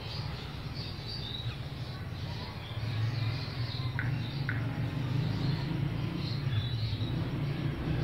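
Small birds chirping, many short high-pitched twitters scattered throughout, over a steady low rumble that grows louder about three seconds in. Two brief sharper calls come about four seconds in, half a second apart.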